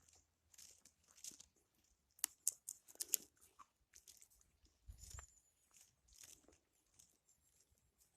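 Faint crunching footsteps at a walking pace, with a few sharper clicks a couple of seconds in and a low bump about five seconds in.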